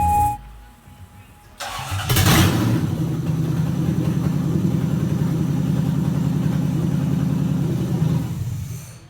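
Toyota 1UZ-FE V8 cranking over and catching about two seconds in, then idling steadily until it stops near the end.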